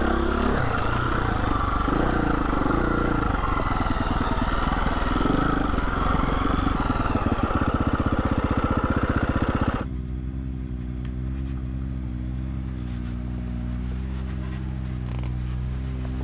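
2020 Husqvarna 350 FE's single-cylinder four-stroke engine running as the dirt bike rides down a rocky trail. About ten seconds in the sound cuts abruptly to a quieter, steady low engine drone.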